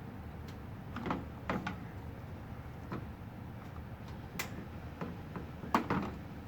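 A handful of scattered light clicks and knocks, about six, with a louder double knock near the end.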